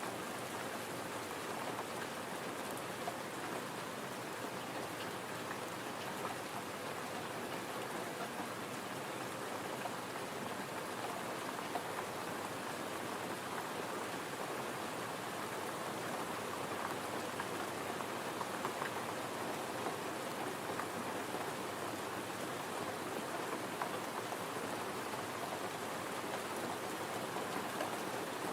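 Gentle rain falling steadily: an even patter of drops with small scattered ticks, unchanging throughout.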